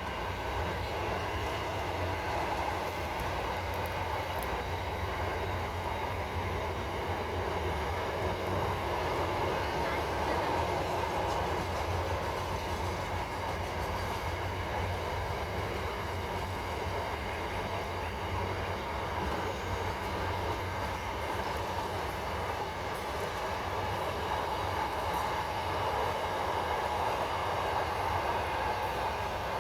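A long train rolling steadily past on the rails, its wheels making an unbroken rumble for the whole half minute.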